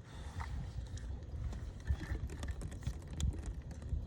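Irregular clicks and knocks over a low rumbling handling noise: a just-landed fish and tackle being handled in a plastic fishing kayak.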